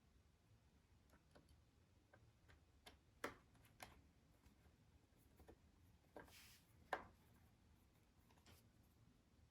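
Faint, irregular clicks and taps of tools and small parts being handled, the loudest about three and seven seconds in, with a brief scraping rustle just before the second.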